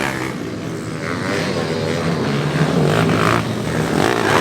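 Dirt bike engines revving up and down, with the pitch rising and falling.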